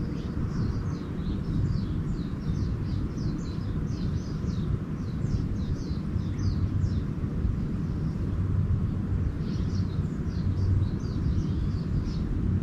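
Small birds twittering in quick runs of short high chirps, pausing about seven seconds in and starting again a couple of seconds later, over a steady low rumble.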